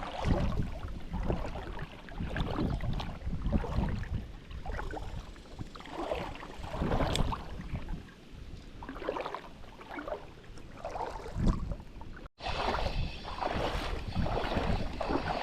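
Water sloshing and splashing in irregular surges, with wind rumbling on the microphone. The sound drops out for an instant about twelve seconds in.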